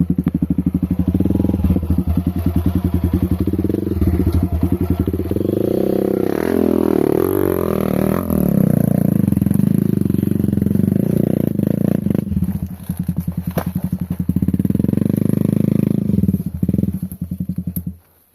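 Off-road motorcycle engine running at low revs, revving up and down about six to eight seconds in, then stopping abruptly near the end.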